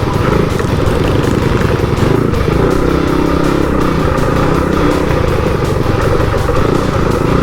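Small single-cylinder minibike engine, a built Ducar 212 in a Coleman CT200U-EX, running loud and steady at high revs under race load.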